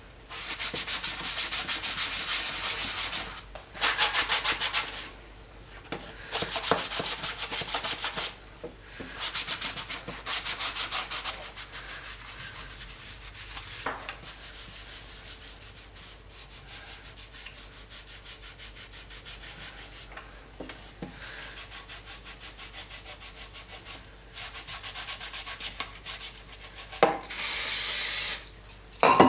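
Scrubbing a surface with fast back-and-forth strokes, in bursts of one to three seconds with short pauses, then softer rubbing through the middle and a brief loud burst of scrubbing near the end.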